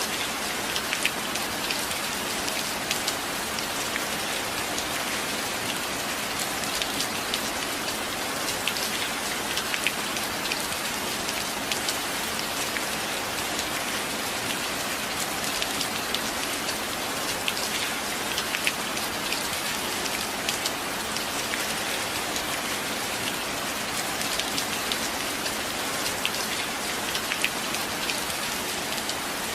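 Steady rain falling on a surface: an even hiss scattered with many sharp, close drop ticks, with no thunder.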